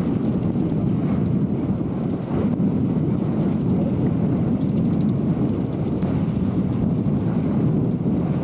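Wind buffeting the microphone aboard a sailboat under way: a steady low rumbling rush with no breaks.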